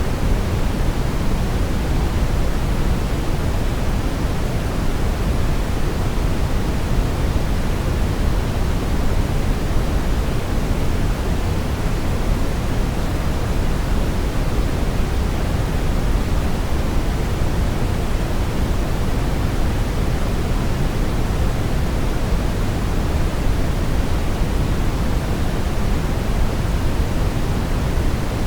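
Steady brown noise: an even, unchanging rushing hiss weighted to the low end, with no events or changes.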